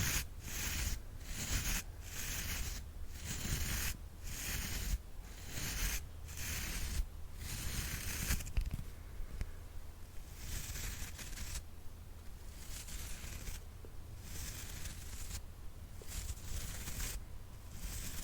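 A brush swept in repeated strokes, about two a second at first, then slower and softer with less hiss from about halfway through.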